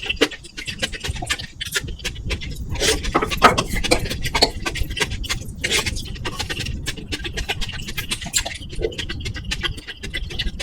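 Close-miked eating sounds: chewing with many quick, irregular wet clicks and crackles. Under them runs a steady low rumble of microphone noise from a faulty mic or cable.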